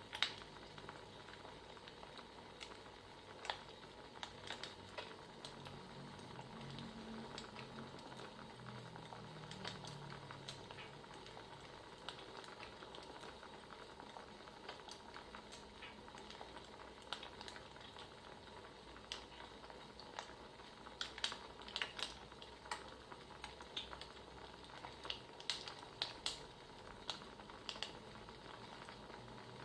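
Crackling wood fire: a soft steady hiss with irregular sharp pops and snaps of burning firewood, coming in quick clusters twice in the latter half.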